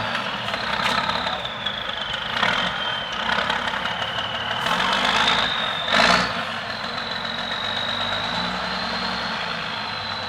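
Heavy diesel truck engine running at low revs with a high, thin whine that drifts slightly in pitch throughout. There are short bursts of noise about two and a half seconds in and again, louder, about six seconds in.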